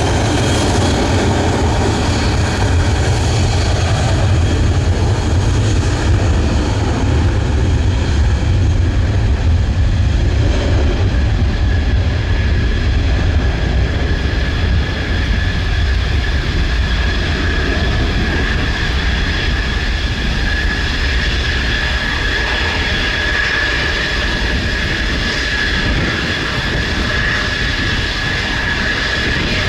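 Military jet engines running with a deep rumble under a steady high whine that rises slightly near the end.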